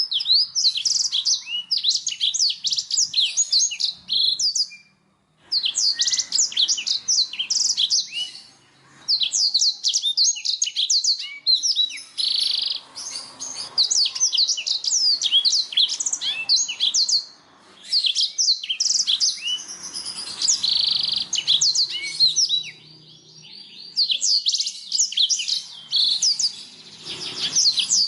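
Black-throated canary (blackthroat) singing: long, fast phrases of rapid high twittering notes, broken by short pauses about five, nine, eighteen and twenty-two seconds in.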